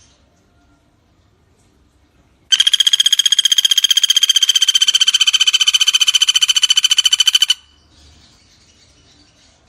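Pelatuk bawang woodpecker giving one long, fast rattling trill of about five seconds, starting a couple of seconds in and stopping abruptly.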